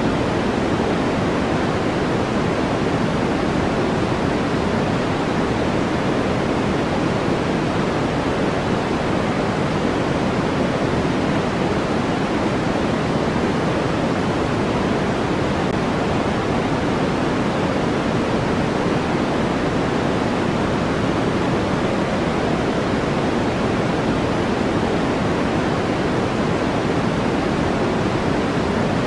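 Steady white noise sleep sound: an even, unbroken hiss with no changes, fuller in the lower-middle range than at the top, so it sounds softer than a bright hiss.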